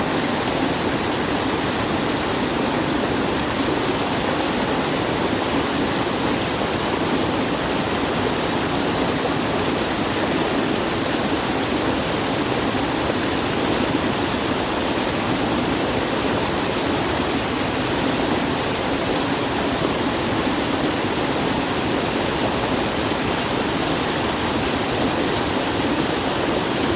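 Steady rushing water, like a waterfall or fast stream, an even hiss with no changes.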